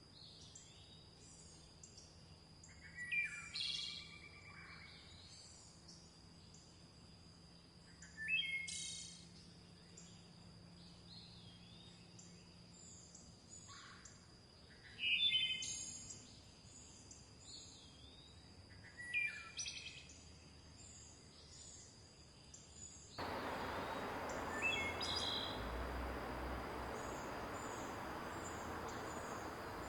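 Forest birds calling: four loud, chirpy phrases a few seconds apart over a background of many faint high chirps and a steady high tone. About 23 seconds in, the sound cuts abruptly to the steady rush of a river, with a bird call just after.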